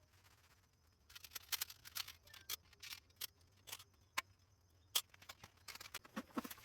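Light, irregular clicks and rustles, starting about a second in, like small things being handled.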